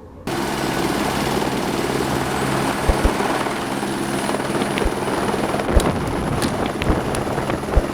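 Helibras Esquilo helicopter running close by: a loud steady rotor and turbine sound with a thin high whine, starting suddenly just after the beginning. A few brief low thumps sound through it.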